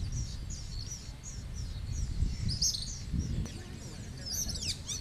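Small birds chirping: a steady run of short, high-pitched notes, with a quicker flurry of sweeping notes near the end, over a low rumble.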